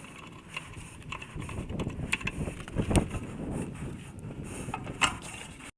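Hands working on a machine with tools and metal parts: irregular rustling and scraping with a few sharp clicks and knocks, the loudest about three seconds in, cutting off abruptly near the end.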